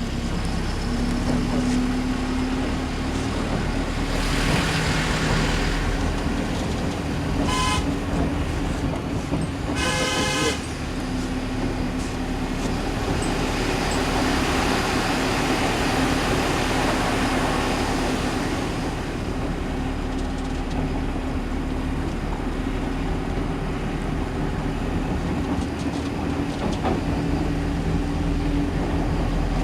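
Truck engine running steadily while the vehicle is under way. A vehicle horn sounds twice, a short note about seven and a half seconds in and a louder blast about ten seconds in. The rushing noise swells for a few seconds in the middle.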